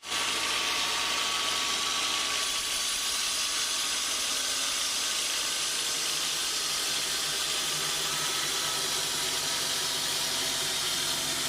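Sawmill saw cutting thick timber: a steady, loud hiss of the blade through the wood over the running machine, without a break.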